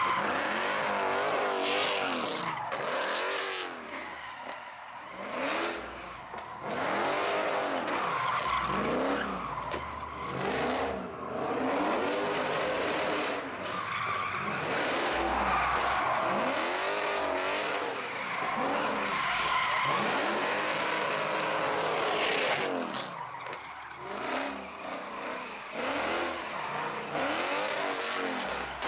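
Car engine revving up and falling back again and again, with tyres squealing and skidding throughout.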